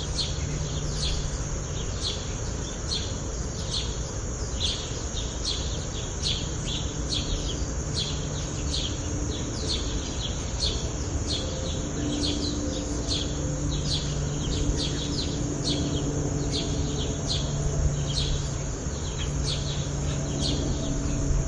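A small bird chirping over and over, short high chirps about once or twice a second, over a steady background hiss and low hum.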